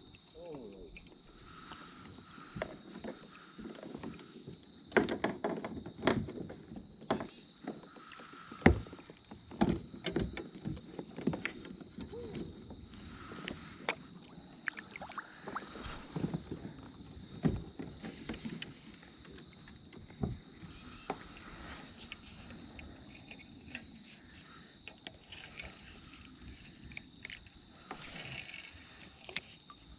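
Sounds of paddling and handling gear in a kayak: water swishing with the strokes, and irregular knocks and clicks against the hull. The loudest knocks come about five and nine seconds in.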